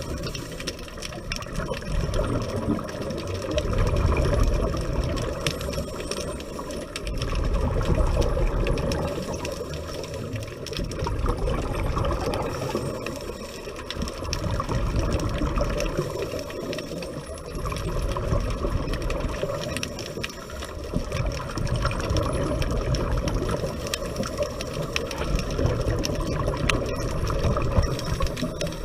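Underwater sound of a scuba diver breathing through a regulator: a watery, crackling rumble of exhaled bubbles that swells and fades about every four seconds.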